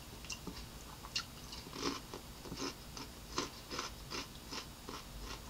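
A person chewing raw cucumber slices close to the microphone, with irregular crisp crunches at two or three a second.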